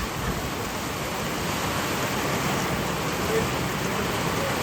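Heavy rain falling steadily in a thunderstorm, an even, unbroken hiss.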